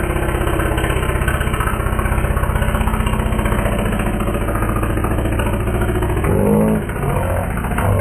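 An engine running steadily nearby with a fast, even pulse, a little louder about six seconds in.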